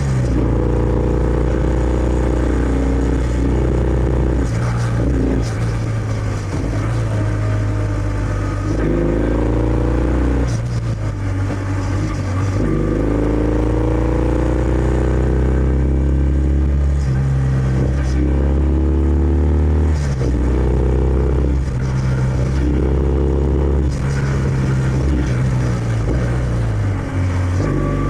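Kawasaki W650's air-cooled parallel-twin engine through its stock exhaust, ridden under way. The pitch rises again and again and drops back as it works up through the gears and eases off, over a steady deep exhaust rumble.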